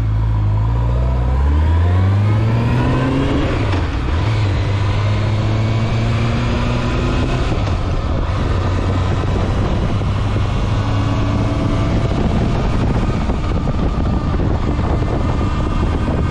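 Honda Nighthawk 750's inline-four engine under way. The pitch rises for the first few seconds as the bike accelerates, drops near four seconds in at a gear change, then holds steady at cruising speed.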